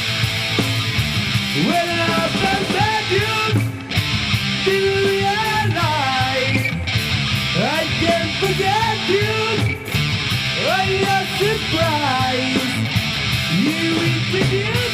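A heavy metal band playing live: distorted electric guitar, bass and drums, with a lead line of notes that slide up and bend over the top.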